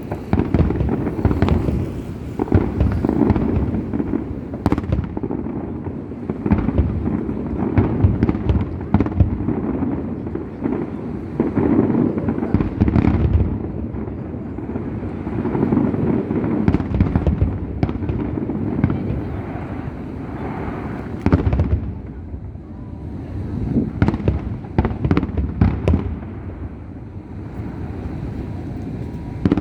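Fireworks display going off continuously: deep, rumbling bangs of aerial shells overlapping, with many sharp cracks in quick succession.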